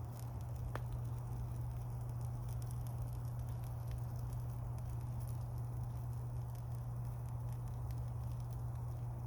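Wood campfire burning: scattered small crackles and a sharper pop about a second in, over a steady low rumble.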